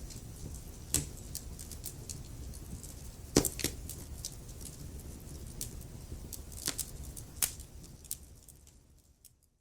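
Wood fire crackling: sharp pops and snaps, a few of them loud, over a low steady rumble of the flames, fading out to silence near the end.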